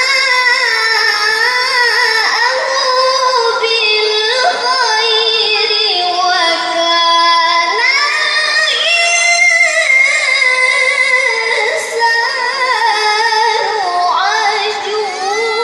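A child qari reciting the Qur'an in melodic tilawah style: one high voice holding long, ornamented notes that waver and glide between pitches, with a quick trill about seven seconds in.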